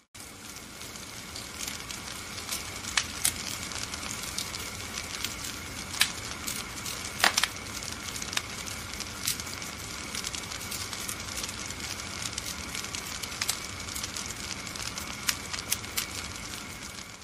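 Wood fire in a fireplace crackling steadily, a dense patter of small pops over a soft hiss, with a few louder snaps.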